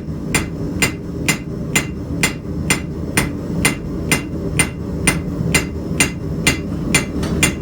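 Hand hammer striking hot high-carbon steel on an anvil, forging a knife blade's bevel. The blows are steady and ringing, about two a second, over a low rumble. The steel is running out of forging heat.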